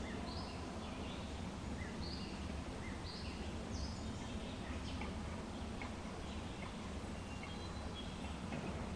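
Small songbirds chirping in short, high notes, about one a second and thinning out after the first half, over a steady low background rumble.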